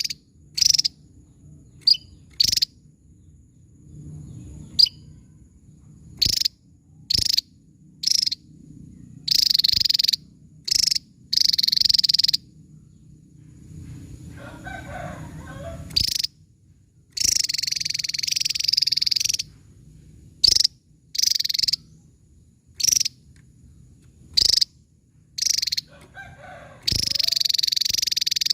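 Javan tesia singing: short, sharp high-pitched notes and a few longer rapid phrases, repeated with short pauses, over a faint low steady hum.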